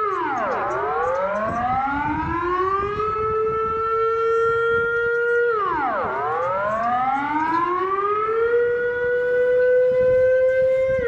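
Civil defence warning siren wailing in cycles: the pitch drops quickly, climbs back over a couple of seconds and holds high, then drops again about every five and a half seconds.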